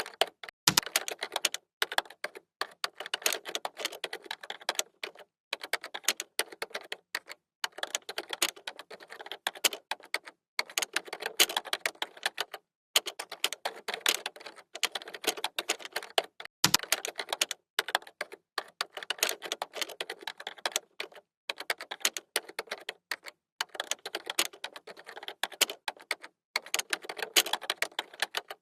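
Typing on a computer keyboard: rapid runs of key clicks in bursts of a second or two, broken by short pauses.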